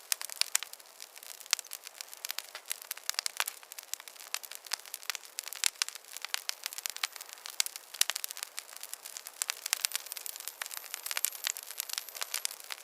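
Wood fire crackling: a dense, irregular run of sharp pops and snaps over a faint hiss.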